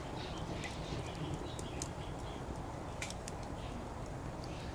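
Firewood burning in an open fire pit, crackling with sharp irregular pops, over a low steady background rumble.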